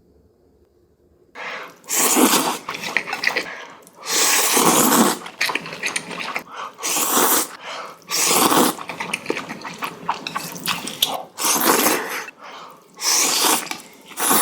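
Loud, repeated slurping of noodles: a long, noisy slurp every second or so, starting about a second and a half in.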